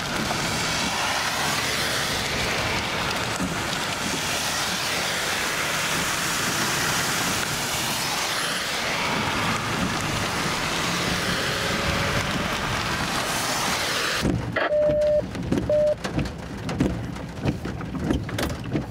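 Steady hiss of rain on a moving car and its tyres on wet pavement, heard from inside the car. It cuts off suddenly about fourteen seconds in. A quieter low rumble follows, with two short beeps and a few knocks.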